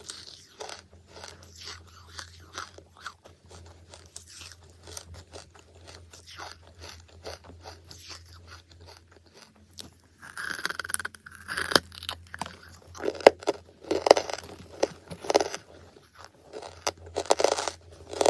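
Close-miked chewing and crunching of charcoal: a steady stream of soft crackling chews, then louder, separate crunching bites from about ten seconds in.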